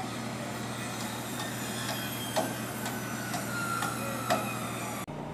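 Hammer blows on a construction site, struck irregularly (about half a dozen), over a steady engine hum. The sound cuts off suddenly near the end.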